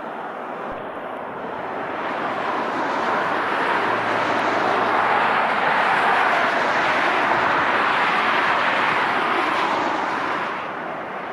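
Jet airliner passing: a broad engine roar builds over a couple of seconds, holds for several seconds, then falls away near the end.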